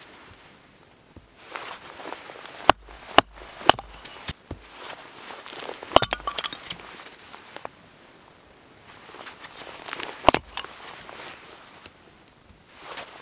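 Firewood and kindling being handled: sharp knocks and clunks every second or few, with rustling between them.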